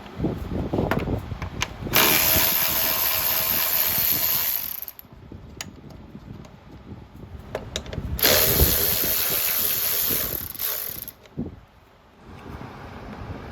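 Cordless electric ratchet running in two bursts of about three seconds each, with scattered clicks and knocks of tools between them.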